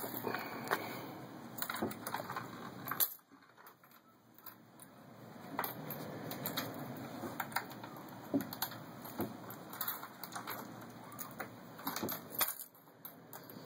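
Pennies clinking and being handled, a scatter of small irregular metallic clicks and ticks.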